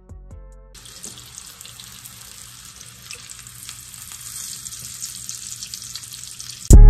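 A butter-coated salmon fillet frying in a nonstick pan: a steady sizzle with fine crackling. A short bit of music sits at the very start, and loud music with a deep bass cuts in near the end.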